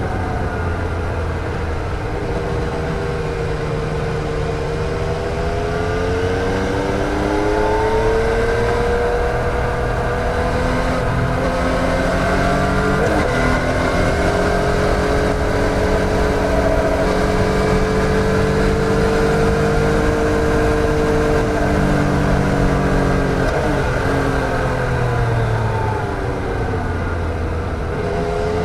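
2014 Yamaha MT-09's 847 cc inline three-cylinder engine pulling on the road, revs rising and falling with the throttle. There are two short breaks in the tone, about halfway through and past three-quarters of the way.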